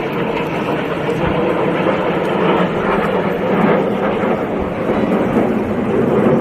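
Aircraft flying past during an air show display: a loud, steady engine noise that swells slightly and ebbs.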